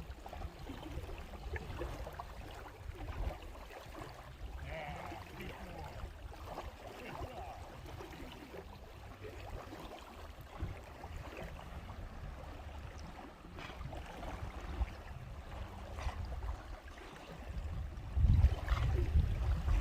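Water lapping and gurgling at the shoreline under a low rumble of wind on the microphone; the rumble grows much louder near the end.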